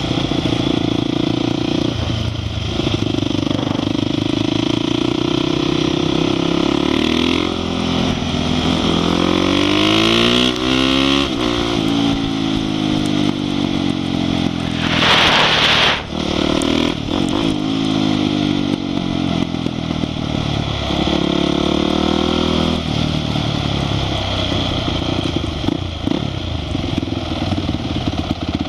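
Honda CRF450 supermoto's single-cylinder four-stroke engine running hard on track, its pitch rising and falling in sweeps as it accelerates through the gears and drops off, under a rush of wind. About fifteen seconds in a loud rush of noise lasts about a second, and near the end the engine runs lower and more steadily as the bike slows.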